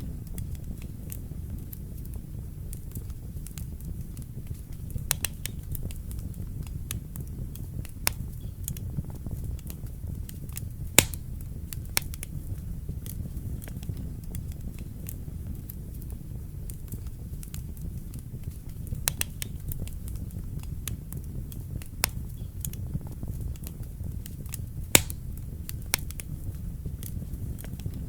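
Wood fire burning in a fireplace: a steady low rumble of flames with irregular sharp crackles and pops, two of them much louder, about eleven seconds in and again near the end.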